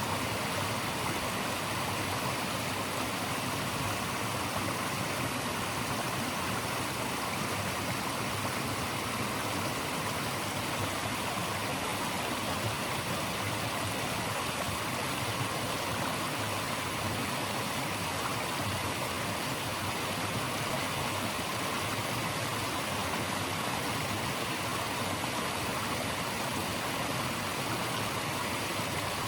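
Rushing water, a steady even hiss of flowing water that does not change over the whole stretch.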